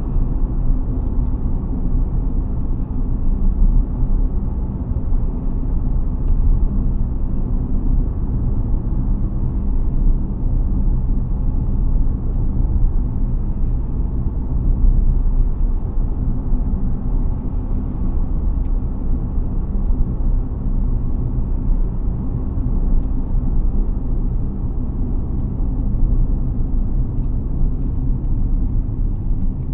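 BAIC BJ30e hybrid SUV being driven: a steady low rumble of road and drivetrain noise with a faint hum, holding even throughout.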